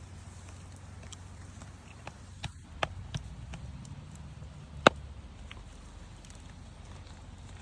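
A few scattered sharp clicks and knocks, the loudest about five seconds in, over a low steady rumble.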